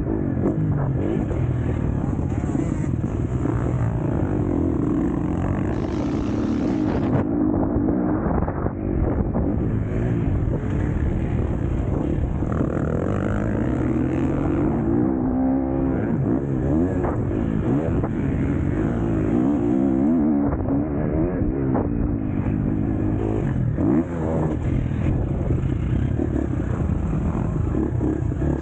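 KTM SX-F four-stroke motocross bike engine revving hard, rising and falling in pitch again and again as it accelerates, shifts and backs off.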